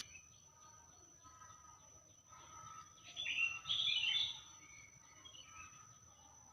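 Wild birds chirping and calling, with a louder cluster of quick chirps about halfway through.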